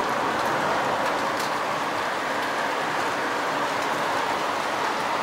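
Heavy rain falling steadily, an even hiss with a few sharp ticks of nearer drops.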